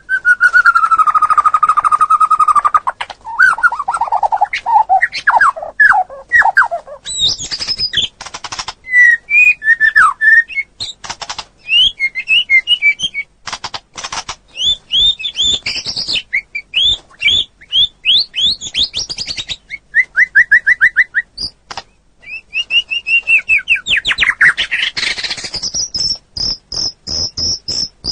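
Songbirds singing in a mixed linnet, white-rumped shama and canary recording: a long low whistle at first, then sliding whistles, sharp chips and trills, ending in a fast run of high repeated notes.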